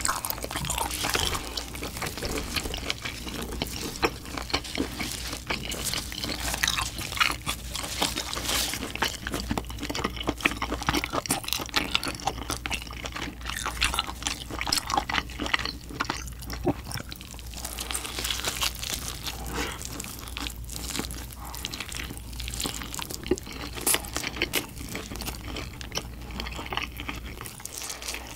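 Close-miked eating of roasted pork knuckle: biting, chewing and tearing the meat, with a steady run of small wet crackles and clicks from mouth and hands.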